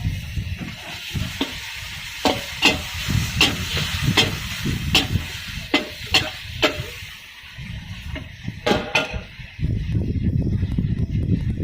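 Stir-frying in a wok: a metal spatula clanks and scrapes against the pan about twice a second over sizzling food and a low rumble. The clanking pauses briefly, then stops about three quarters of the way through, leaving the sizzle and rumble.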